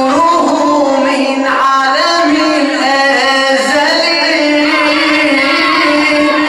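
Devotional religious song (a radood's anthem praising the Prophet Muhammad) sung in long, held, winding notes, loud and steady throughout.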